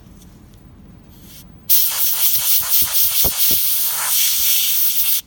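Dental three-in-one air-water syringe spraying into a prepared tooth cavity to wash and dry it. A loud, steady hiss with a few uneven pops in it starts suddenly a little under two seconds in and cuts off sharply about three and a half seconds later.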